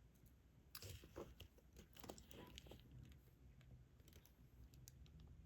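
Faint, irregular small clicks and crinkles of diamond-painting work: a drill pen picking up resin drills and pressing them onto the adhesive canvas.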